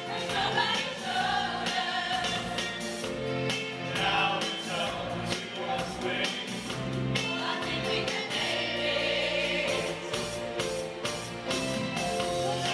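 A choir singing a pop song with band accompaniment, over a steady drum beat and bass line.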